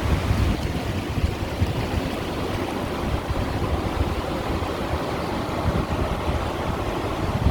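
Small sea waves washing against shoreline stones: a steady rushing and splashing of water, with a low, fluttering rumble underneath.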